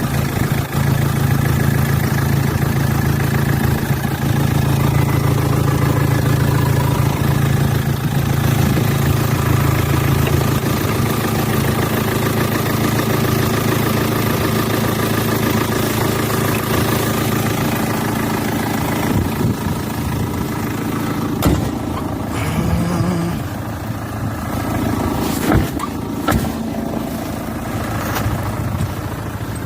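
2004 Hyundai Santa Fe engine idling steadily. A few sharp clicks and knocks come over it in the second half.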